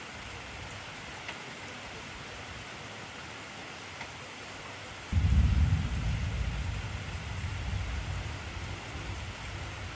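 Steady heavy rainfall. About halfway through, a low clap of thunder starts suddenly and rolls away slowly, rumbling to the end.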